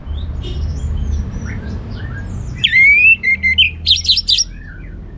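Orange-headed thrush singing: a few faint notes, then about two and a half seconds in a loud phrase of a rising whistle followed by quick, high, scratchy notes. A steady low hum runs underneath.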